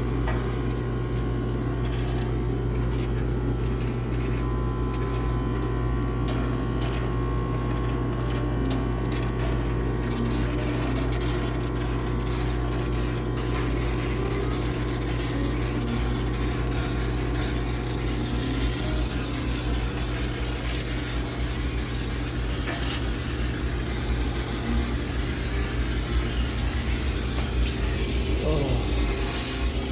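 High-pressure steam cleaner running with a steady hum and a hiss of steam as it sanitizes a washing machine; the hiss grows stronger in the second half.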